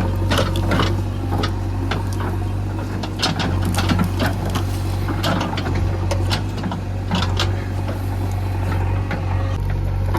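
A heavy diesel engine running steadily, with a low hum, over a string of sharp, irregular knocks and clatters.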